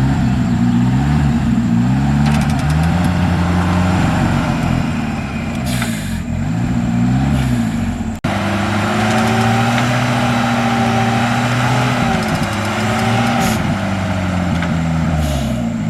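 Off-road 4x4 engine revving under load, its pitch rising and falling repeatedly. It cuts off abruptly about eight seconds in, then runs on more steadily with slower swings in pitch.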